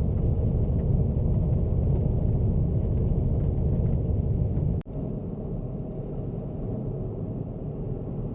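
Car driving on a winter road: a loud, steady low rumble of engine and tyres. About five seconds in it cuts off abruptly and gives way to a quieter, steadier rumble.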